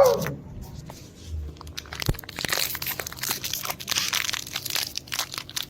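A puppy's high whimper falls in pitch and fades out at the very start. Then comes a stretch of scratchy, crinkling rustle made of many small clicks.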